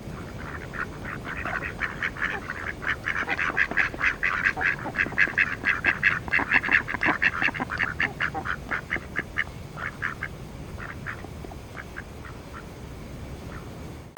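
A bird giving a rapid run of short calls, several a second, building up and then thinning out over the second half, over a steady low background rumble.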